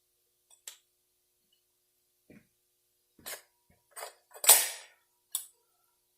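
Small transmission clutch-drum parts being handled and set in place on the bench: a few light clicks and clinks, then one louder clatter with a short ring about four and a half seconds in.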